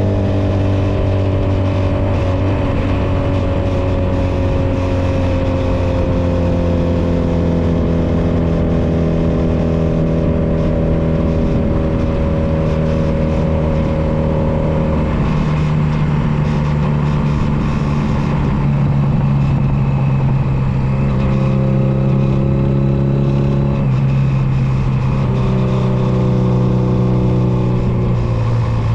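Honda Nighthawk 250's air-cooled parallel-twin engine running under way. Its pitch drifts slowly down over the first half, then changes in steps several times in the second half as the rider shifts gears and works the throttle.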